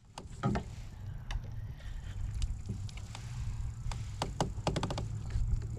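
Scattered sharp clicks and knocks of things being handled aboard a kayak, over a steady low rumble.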